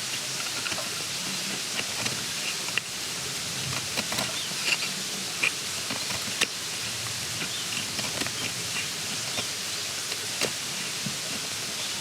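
Outdoor woodland ambience: a steady hiss with scattered small clicks and knocks, and brief faint bird chirps here and there.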